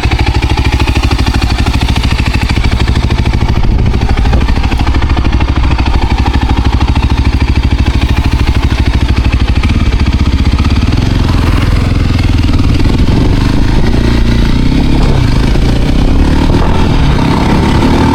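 Voge Rally 300's single-cylinder engine running steadily, its note starting to shift and vary in pitch about eleven seconds in.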